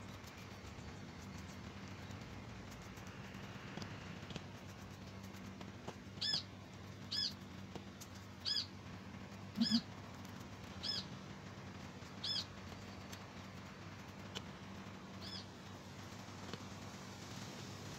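A bird chirping in the background: seven short, arched chirps, the first about six seconds in and spaced a second or so apart, over a faint steady hum.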